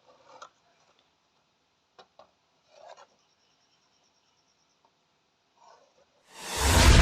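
A few faint scattered clicks and rubs. Then, about six seconds in, a loud boom with a deep low end and a whoosh swells in quickly, like an edited-in intro sound effect.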